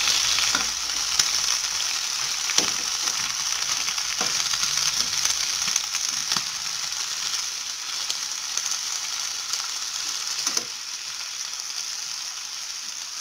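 Malabar spinach (pui shak) leaves and potato pieces sizzling steadily in hot mustard oil in a frying pan, the water in the leaves cooking out. A spatula clicks and scrapes against the pan a few times during the first ten seconds, and the sizzle drops a little about ten and a half seconds in.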